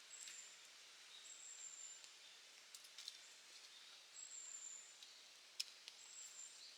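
Quiet crackling of a wood campfire: a few sharp pops, the sharpest about five and a half seconds in, over a faint hiss. Thin, high whistling notes, each under a second long, recur about four times.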